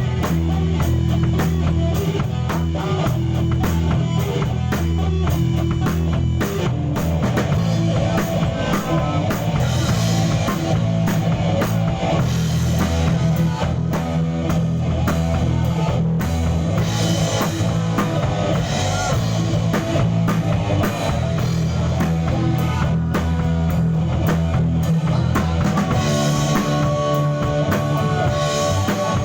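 Live band playing in a rehearsal studio: drum kit, bass and electric guitar playing together continuously at a steady loud level, as in a sound-check run-through.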